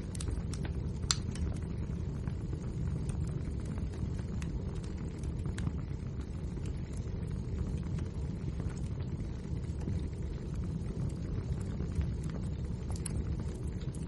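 Wood fire burning in a fireplace: a steady low rumble of flame with frequent small crackles and pops from the burning logs, a few sharper snaps about a second in and near the end.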